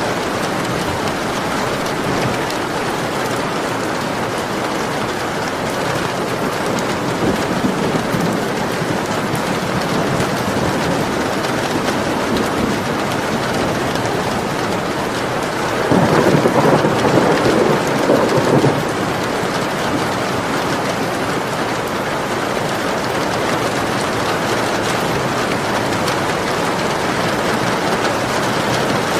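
Steady rain falling, with a louder rumble of thunder for about three seconds a little past the middle.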